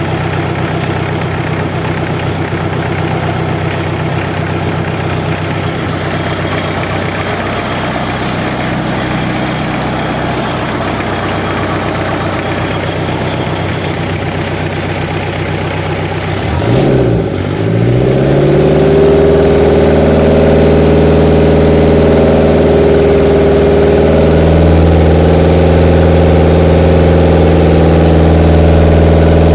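Warmed-up Toyota 3C diesel engine running at idle. About 17 seconds in, its pitch dips and climbs back, and it then settles into a louder, steady run.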